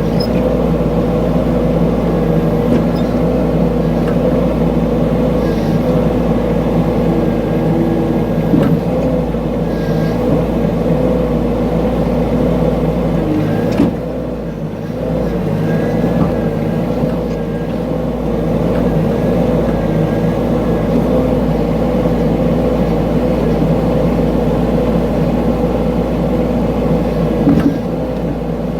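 Mini excavator engine running steadily under load as it digs, with a whine from the hydraulics that wavers in pitch. The engine note dips briefly about halfway through, and there are a few short knocks.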